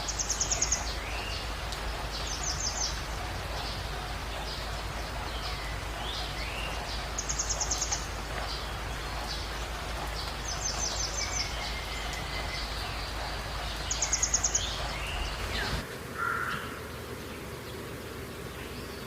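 Forest birds calling over a steady rushing background: a short, rapid, high-pitched trill repeats about five times a few seconds apart, among lower whistled notes that slide in pitch. Near the end the background drops away abruptly and one brief lower call sounds.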